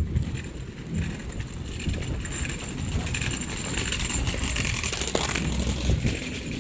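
Outdoor harbourside ambience: a steady low rumble under a hiss that grows louder in the middle and eases off near the end.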